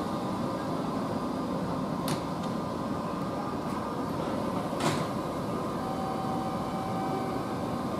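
Kintetsu 23000 series Ise-Shima Liner limited express standing at the platform with its equipment humming steadily, its doors closing for departure: a click about two seconds in and a louder knock about five seconds in.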